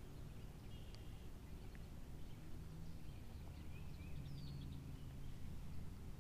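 Quiet outdoor lake ambience with a few faint, distant bird chirps and a short falling whistle call.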